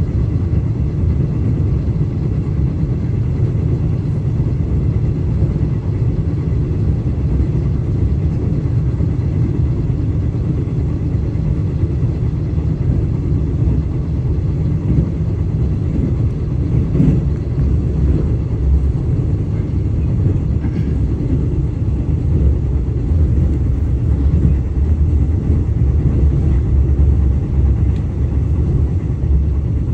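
KTM passenger train running along the track, a steady low rumble heard from inside the carriage, with a couple of faint clicks about halfway through.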